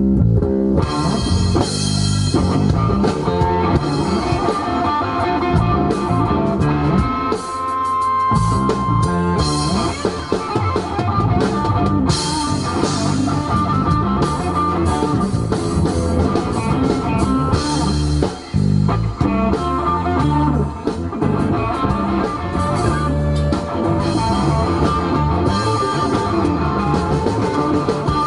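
A rock band playing live: guitars and drum kit, with no singing.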